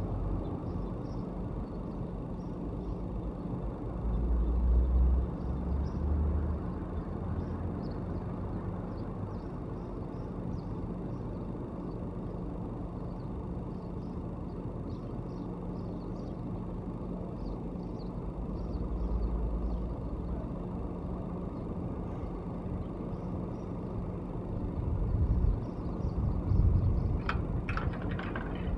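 Outdoor background of passing road traffic: a steady low rumble that swells three times as vehicles go by. A short run of clicks near the end.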